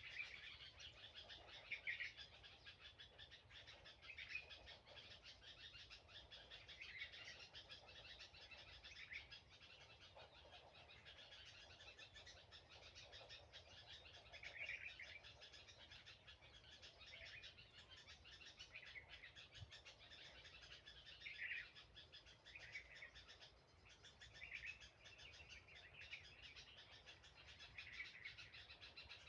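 Faint bird chirping: short calls every second or two over a steady, dense chatter.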